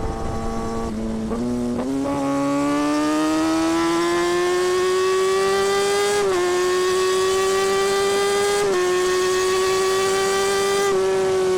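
2017 Kawasaki Ninja ZX-6R's inline-four engine pulling hard under acceleration. After a couple of quick throttle blips near the start, its pitch climbs steadily, dipping briefly at gear changes about six, nine and eleven seconds in.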